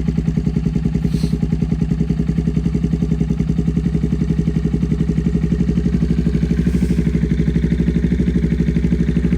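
Honda Monkey 125's single-cylinder four-stroke engine idling steadily through an Akrapovič titanium slip-on exhaust, with an even beat of exhaust pulses.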